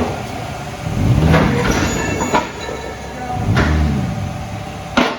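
Lexus GS300's inline-six engine idling and revved twice, the pitch rising and falling each time, with a few sharp clicks.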